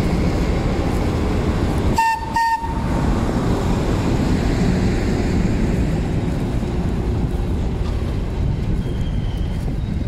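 Historic passenger train rolling slowly past behind a diesel locomotive, with a steady rumble of engine and wheels. About two seconds in, the train horn gives two short toots.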